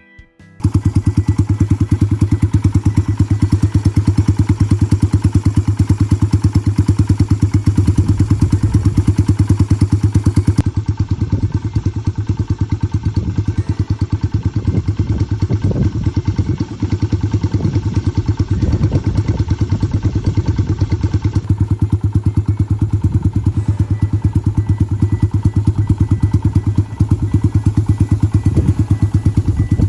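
Yamaha Virago 250's air-cooled V-twin engine running steadily, loud and close, with a fast, even beat of firing pulses.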